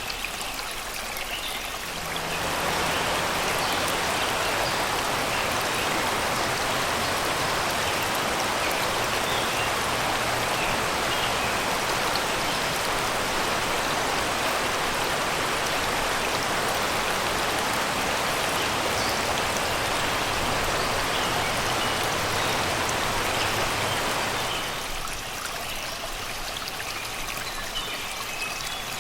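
Shallow river rushing and babbling over rocks: a steady wash of water that grows louder about two seconds in and eases back a few seconds before the end. Faint birdsong in the forest behind it.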